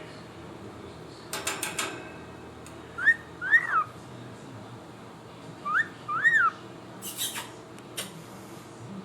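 Cockatiel whistling a two-note phrase, a short rising note then a longer rising-and-falling note, twice, with short harsh chirps before and after.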